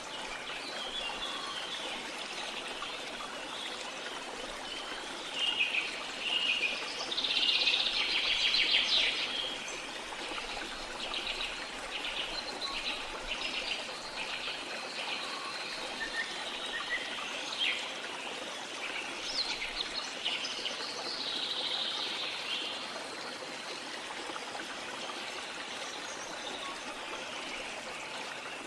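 Steady rush of a waterfall with birds calling and chirping over it. The loudest bird song comes about a quarter of the way in, followed by a run of short, evenly repeated notes.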